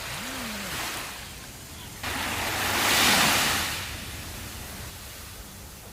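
Sea waves on a sandy beach: a steady surf hiss, with one wave breaking and washing in. It starts suddenly about two seconds in, is loudest about a second later, then fades back.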